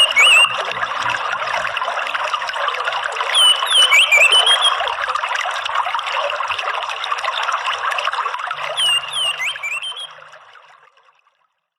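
Steady trickling of running water, with short clusters of a songbird's quick whistled chirps three times, near the start, a few seconds in and near the end; the whole sound fades out near the end.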